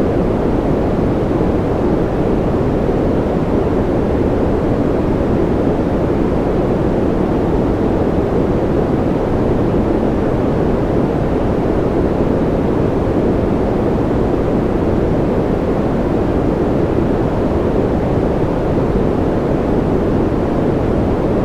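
Steady sleep white noise: an even, unbroken hiss that is deep and muffled, with more bass than treble, and that never changes.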